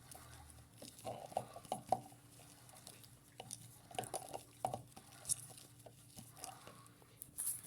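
Washing machine in its wash cycle: water and wet clothes sloshing in the drum, with scattered soft splashes and clicks over a faint steady motor hum.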